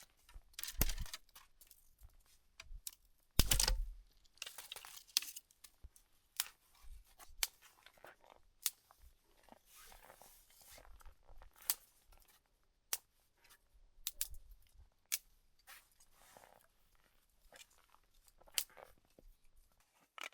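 Irregular tearing, crunching and crinkling handling noises with sharp clicks, the loudest burst about three and a half seconds in.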